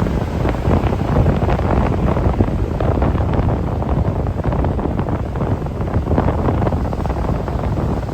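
Strong wind buffeting the microphone in uneven gusts over the rush of large sea waves breaking on the shore.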